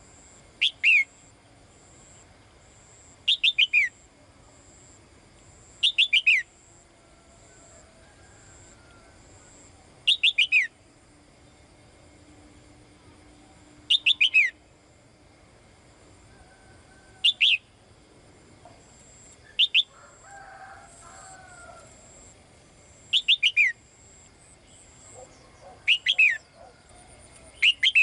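Female bird calling to a male: short bursts of two to four quick notes, each falling in pitch, repeated every few seconds.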